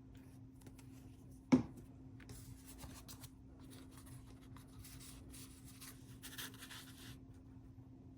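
Cardstock being handled, pressed and rubbed down by hand, with rustling and rubbing through the middle, and one sharp knock on the table about a second and a half in. A faint steady hum runs underneath.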